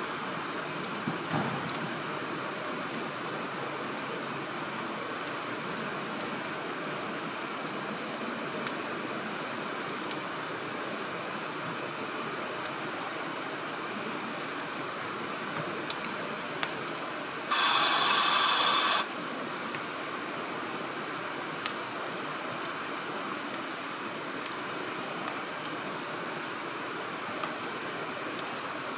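Wood fire burning with a steady hiss and scattered sharp crackles and pops. Past the middle comes a louder, brief sound of about a second and a half made of several stacked pitches, which stops abruptly.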